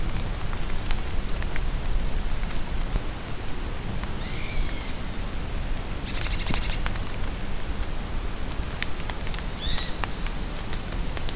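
Steady rain falling in a forest, with drops pattering and ticking, while several birds call: a high warbled call about four seconds in, a fast buzzy trill a couple of seconds later, another warbled call near the end, and a few thin high whistles between.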